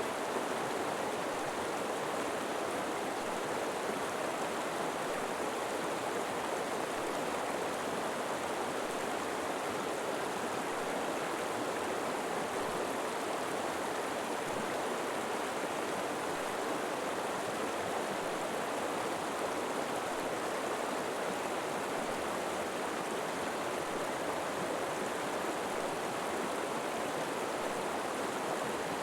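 A river flowing with a steady, even rush of water, without a break or change.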